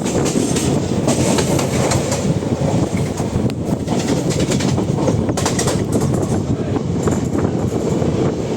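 Train running: a steady, loud rumble with frequent short clacks.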